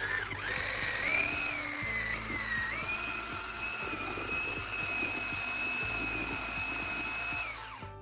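A high-speed electric power tool motor running with a steady high whine, dipping briefly in pitch about two seconds in, then winding down near the end as it is switched off.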